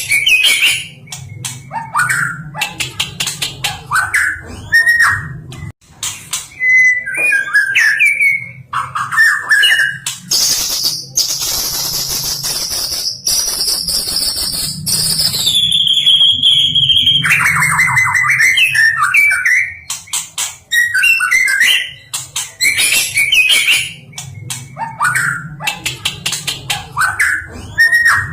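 White-rumped shama (murai batu) singing a varied song of loud whistled phrases that slide up and down. Midway it holds a long high trill that drops in pitch and then breaks into a run of rapid notes.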